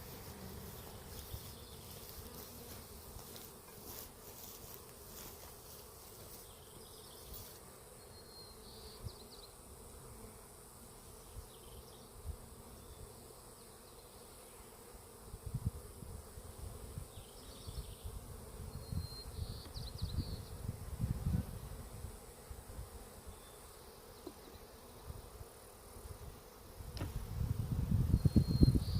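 Honeybees buzzing around an opened, broken-apart hive; the colony is agitated after the hive fell. Low rumbling thuds come and go through the second half and are loudest near the end.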